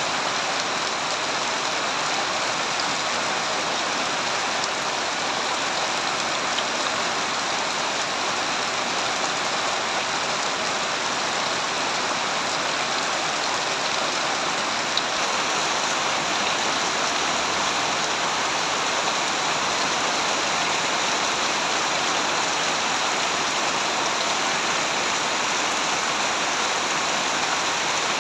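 Steady heavy rain falling and pattering on surfaces, an even dense hiss with a few faint drop ticks.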